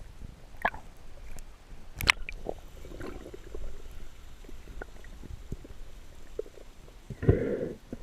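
Underwater sound as picked up by a camera in its housing: a low rumble of water with scattered sharp clicks. A short burst of bubbling comes about seven seconds in.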